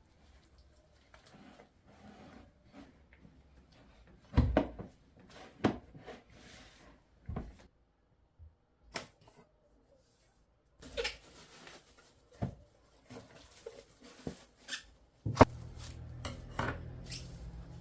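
Kitchen handling sounds: scattered knocks and clinks of dishes and utensils being set down and moved, with a few seconds of dead quiet in the middle. About fifteen seconds in, a loud knock is followed by a steady low hum that carries on under further clinks.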